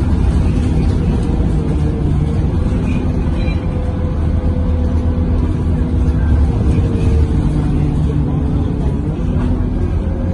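Scania K230UB bus's five-cylinder diesel engine running steadily while the bus is under way, heard from inside the passenger cabin as a steady low hum.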